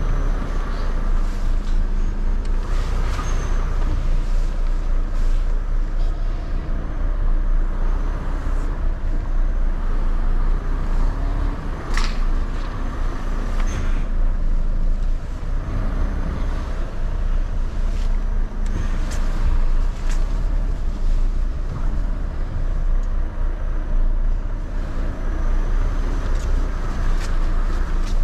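Lorry's diesel engine running low and steady, heard from inside the cab while the truck manoeuvres slowly in reverse, with a few scattered clicks and one sharp tick about twelve seconds in.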